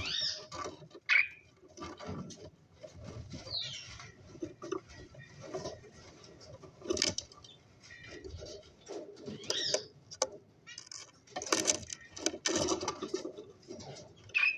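Cockatiels calling in short high chirps, several sliding downward in pitch, mixed with scattered taps and rustling.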